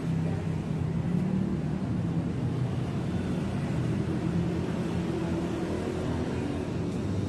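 Steady low rumble of running motor-vehicle engines, with a wavering low hum and no distinct knocks.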